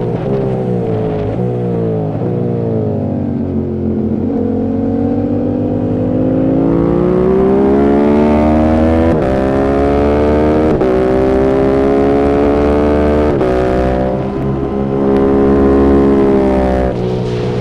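Yamaha YZF-R7's parallel-twin engine through an aftermarket M4 exhaust, ridden hard on a track. The revs fall with several quick downshifts over the first few seconds, then climb through a series of upshifts under acceleration. There is a brief dip about three-quarters of the way in before the revs rise again.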